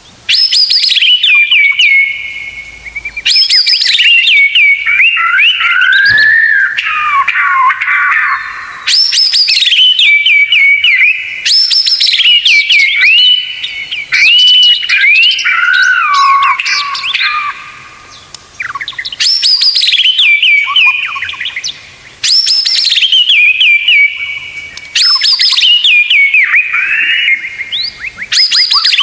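White-rumped shama (murai batu) singing a tutor song of loud, fast phrases: sharp whistles falling from high to lower pitch, run into rapid trills, with a phrase every few seconds and short pauses between.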